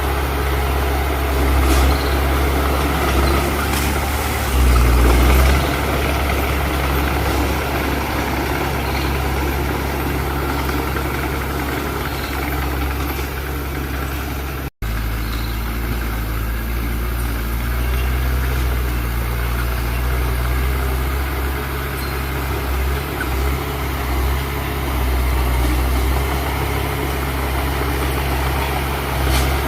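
Heavy diesel engine of earthmoving machinery running steadily at low revs. The sound cuts out for an instant about halfway through, then carries on.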